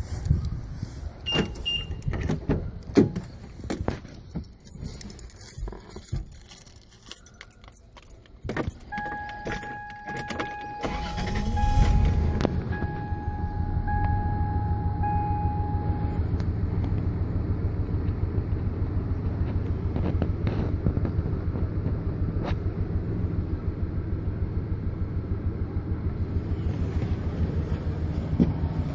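Scattered clicks and handling noise, then a repeating warning chime, then a Toyota Tacoma engine cranking and catching about 12 seconds in and idling with an uneven, pulsing beat. The rough idle is a misfire, which began after the engine bay was washed.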